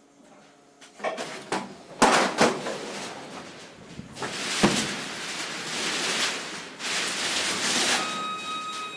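Several sharp knocks about a second in and again a few seconds later, with a loud rushing noise between and after them.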